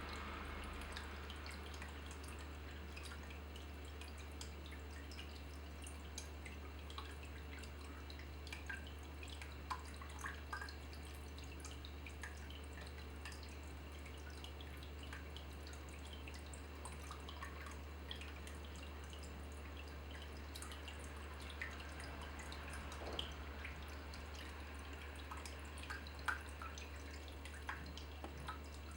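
Water dripping in small, irregular drops, a few a second, over a steady low hum.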